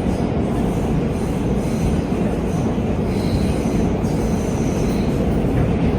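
R subway train running along the track: a loud, steady rumble of wheels and car, with faint high wheel squeals about halfway through.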